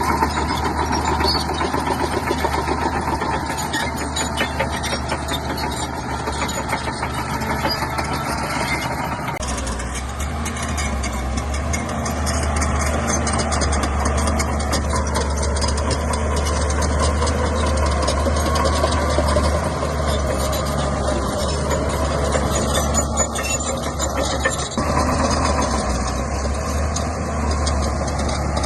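Shantui bulldozer's diesel engine running, with a steady low rumble. The engine note shifts abruptly about a third of the way in and again near the end.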